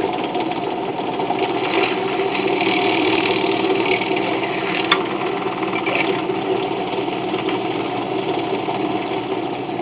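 An electric power tool running steadily, with a rougher, brighter grinding noise about three seconds in as it bears on the brass work piece.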